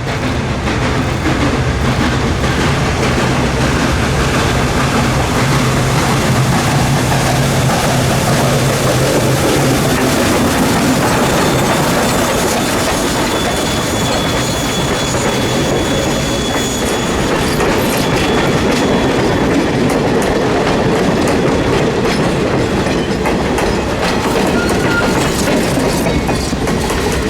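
Steam-hauled excursion train rolling past, its wheels clacking steadily over the rail joints. A thin, high squeal of wheels on the rails comes through in the middle.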